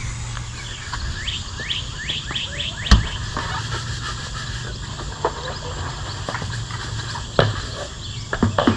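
A bird chirping in a quick run of short rising notes, followed by a few sharp knocks.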